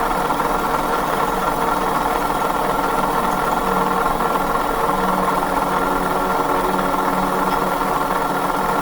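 A power tool's electric motor running steadily, a loud, even whir and grind from metalworking.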